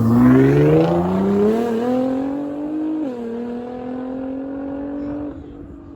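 A car accelerating hard with a loud exhaust, its engine pitch climbing steadily, then dropping sharply about three seconds in as it shifts up, and climbing again before fading out near the end.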